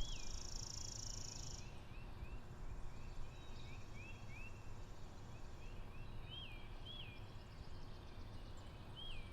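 Outdoor nature ambience of small birds chirping, with short quick chirps repeated throughout over a low steady background hum. A high steady hiss sounds for the first second and a half, then stops.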